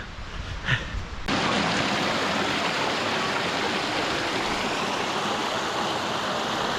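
Steady rush of a mountain stream's flowing water, starting abruptly about a second in.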